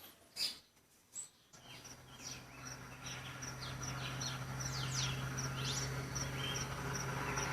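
Wild songbirds calling: a few sharp single notes at first, then from about a second and a half in a busier mix of quick repeated high notes and sweeping whistles, over a steady low hum.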